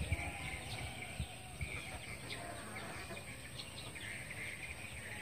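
Small birds chirping and twittering in short, repeated high notes, over an uneven low rumble of wind on the microphone.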